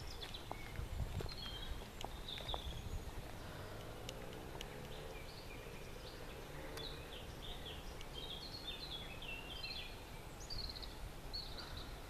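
Songbirds singing in the trees, with short high chirps and trills that come thickest in the second half, over a steady low outdoor rumble.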